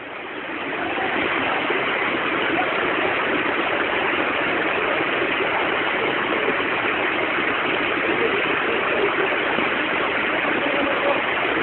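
Steady rushing noise of heavy rain and running rainwater, fading in over the first second.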